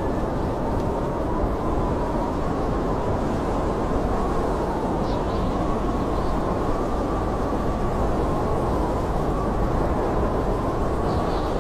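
Blizzard wind blowing steadily as a dense rumble, with a faint whistling howl that slowly wavers in pitch.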